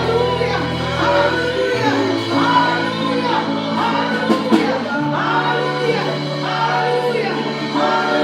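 Worship music: voices singing repeated phrases over held keyboard and bass chords, the chord changing twice.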